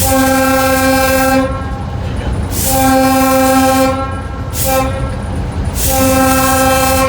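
Diesel locomotive air horn sounding two long blasts, a short one and a final long one: the long-long-short-long signal for a grade crossing. Beneath it runs the low rumble of the locomotive.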